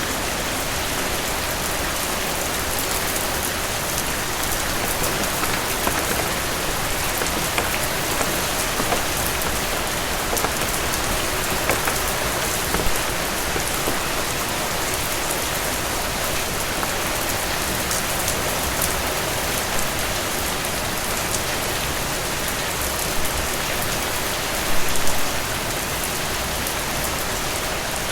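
Steady rain falling on a cabin roof: a dense, even hiss with scattered louder drops, and a short flurry of louder drips near the end.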